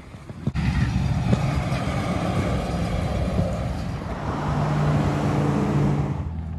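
Motor vehicle engine running with a steady low hum under a broad rushing noise, starting and stopping abruptly.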